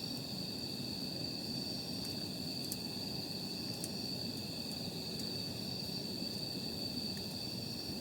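Wood campfire burning with a low rush and a couple of faint pops, over the steady high trill of crickets.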